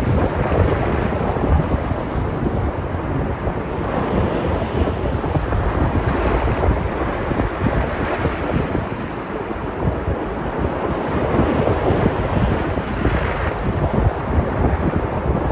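Sea surf breaking and washing in, a continuous rushing wash that swells a little about six seconds in and again near the end, with a strong low rumble of wind buffeting the microphone.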